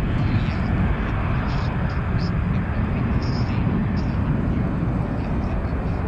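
Airbus A321 airliner's jet engines, a steady loud roar heavy in the low end, with faint short chirps above it.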